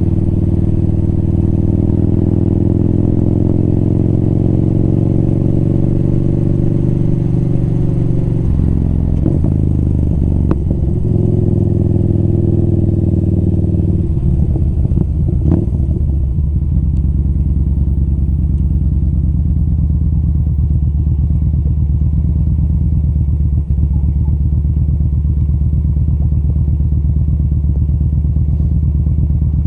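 Motorcycle engine running on the move. The engine note shifts about a third of the way in and again around halfway, then holds steady.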